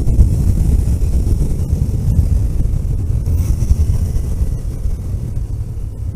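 Vehicle driving on a road: a steady, loud low rumble of engine, tyre and wind noise that slowly gets quieter.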